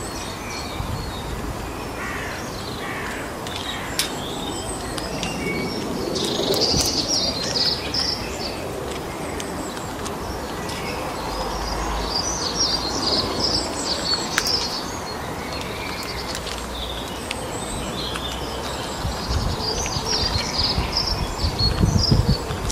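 Small birds chirping and twittering in several bursts over a steady background hiss, with a few sharp clicks.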